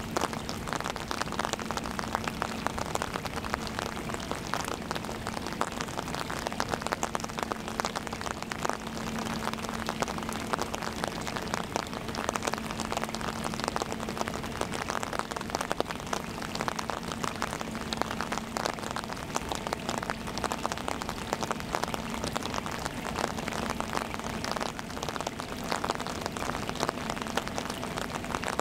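Rain hitting an umbrella held close overhead: a dense, steady patter of drops.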